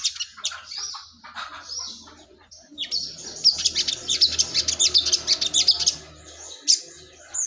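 Sogon bird singing: scattered high chirps, then, about three seconds in, a dense run of rapid high chirps lasting about three seconds before it thins out again.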